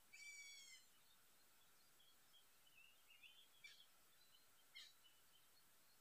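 Faint bird calls in the forest: one drawn-out call lasting under a second at the start, then a few scattered short chirps and two quick downward chirps.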